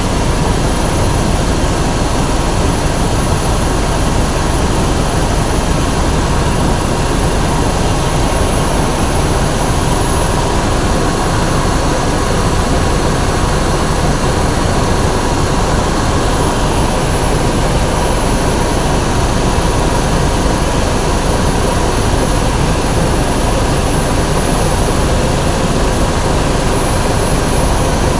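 Helicopter in flight: steady, loud engine and rotor noise with a faint high whine running through it.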